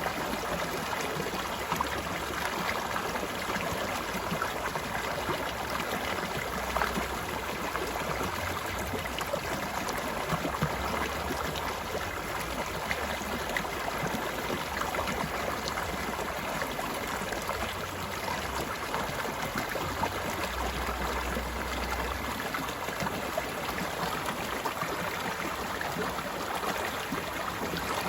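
Mountain stream flowing steadily over rocks, a continuous rushing babble with small splashes throughout.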